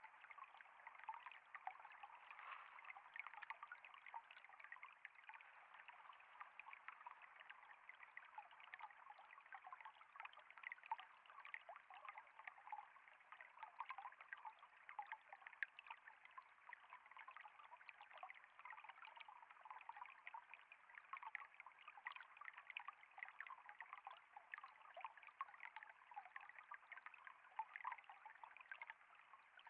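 Faint, steady trickle of flowing water, a continuous stream of tiny splashes with no pauses.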